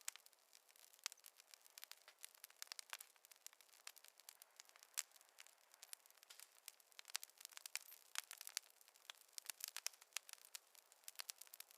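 Wood fire crackling softly: a steady stream of small, irregular pops and snaps over a faint hiss.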